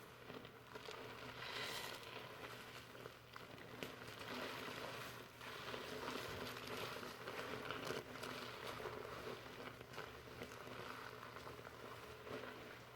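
Fingers working foamy shampoo lather through hair, a continuous soft rustling and crackling of bubbles that swells and eases as the hands move.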